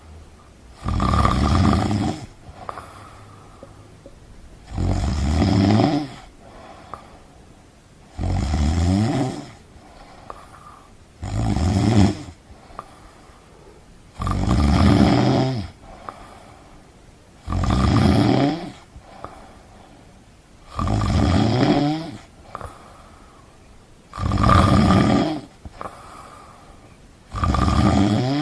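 Snoring in a slow, even rhythm: a loud snore about every three and a half seconds, each lasting about a second and a half, with quiet breathing between.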